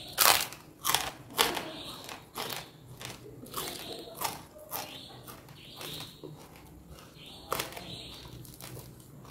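A person biting and chewing crunchy food close to the microphone. There are several loud, sharp crunches in the first second and a half, then irregular softer crunching and chewing, with one more sharp crunch near the end.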